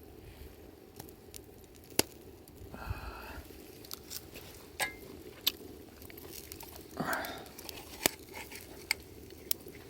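Wood campfire crackling: scattered sharp pops over a steady low rustle, with a few short louder rushes of noise.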